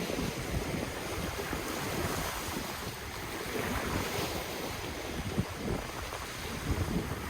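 Ocean waves washing on the shore in a steady surf hiss, with gusty wind buffeting the microphone as a low rumble.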